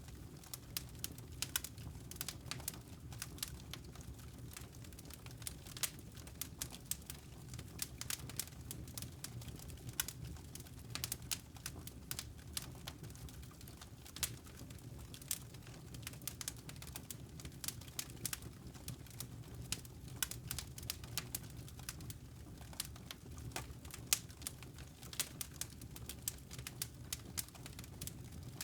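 Wood fire in a fireplace crackling, with constant irregular small pops and snaps over a low, steady rumble.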